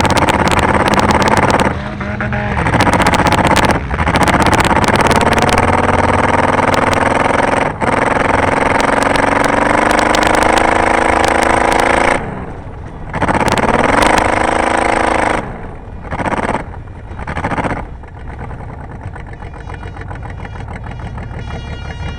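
Car engine being driven hard at high revs, with the throttle lifted briefly a few times and the revs climbing again, then a couple of short blips before it drops back to a steady idle near the end.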